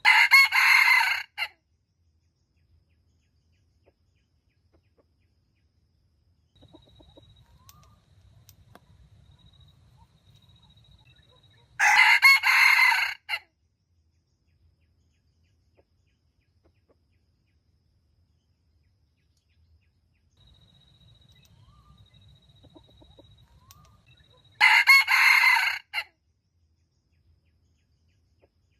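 Junglefowl rooster crowing three times, each crow short, about twelve seconds apart.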